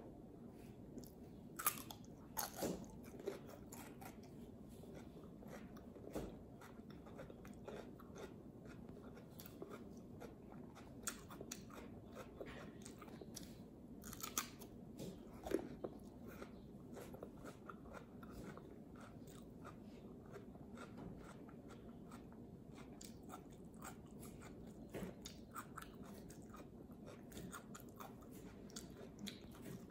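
Crisp crunching bites and chewing of raw cucumber spread with peanut butter: a string of sharp crunches with a few louder bites about two seconds in and again about halfway, and quieter chewing between them.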